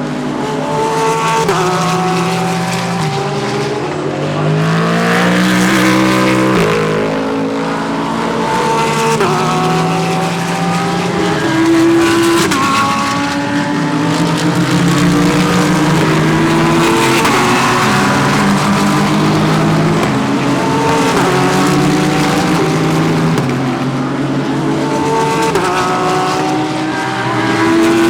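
A steady stream of GT3 race cars passing through a corner. Several engines overlap, their notes falling as the cars brake and rising again as they accelerate away.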